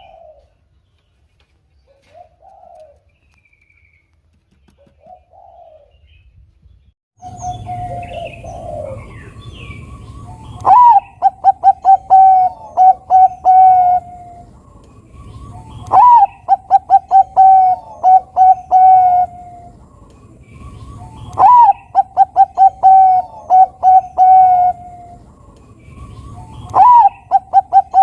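Zebra dove (perkutut) of the Thai-bred 'Bangkok' type singing: four loud phrases, each an upward opening note followed by a quick string of short coos, repeating about every five seconds. Faint soft calls come first, and a steady low background noise sets in about seven seconds in.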